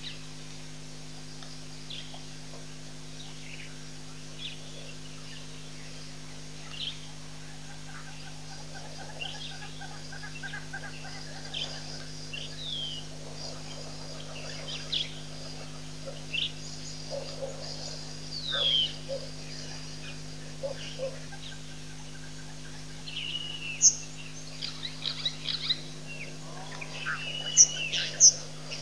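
Wild birds calling: scattered short chirps and whistles over a steady low hum, the calls growing busier and louder over the last five seconds.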